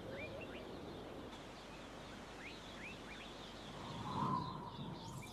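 Quiet outdoor natural ambience with a few faint, short bird chirps that slide upward, scattered through it.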